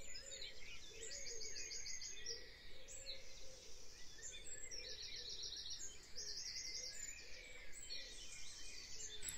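Faint birdsong: a small bird repeating a short, rapid, high trill about four times, over quiet background noise.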